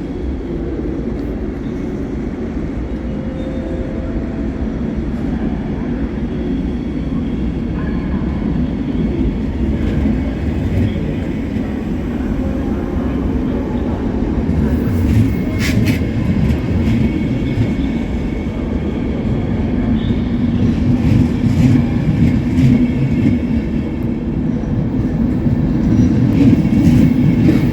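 Train moving on the station tracks: a steady low rumble that grows louder toward the end, with a few sharp clicks about halfway through and again near the end.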